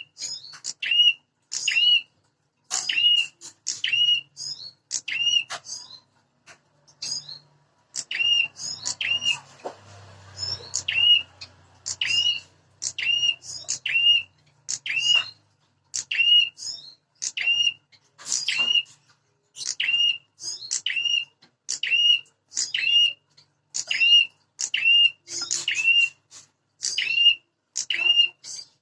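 Prenjak (small prinia-type warblers) calling in agitated, rapid bursts: short sharp chips and hooked notes repeated about once a second or faster, with a brief pause near the quarter mark. This is territorial fighting calling, used as a lure to provoke caged prenjak into calling back.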